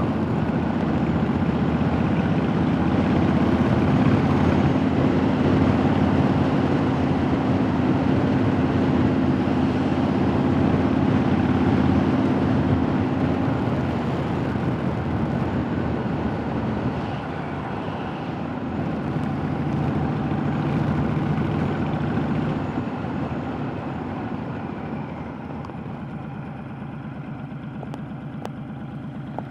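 Honda Fury motorcycle's V-twin engine running steadily under way. Its note drops to a lower pitch around the middle, and the sound grows quieter over the last few seconds.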